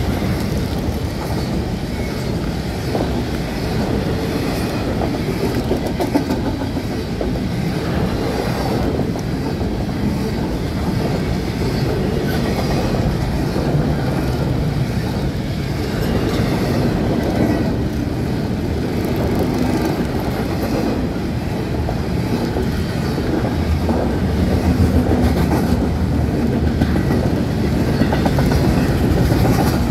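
Double-stack intermodal freight train's well cars rolling past: a steady rumble of steel wheels on rail, with repeated clicks as the wheels cross rail joints, a little louder near the end.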